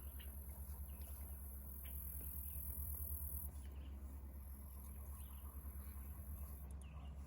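Insects trilling, a continuous very high-pitched buzz that drops out briefly about three and a half seconds in and then resumes, over a faint low rumble.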